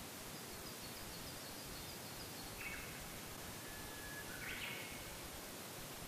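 Faint birdsong over a steady background hiss. A quick run of high chirps comes first, then a short call, then a held whistle that ends in a louder short phrase about four and a half seconds in.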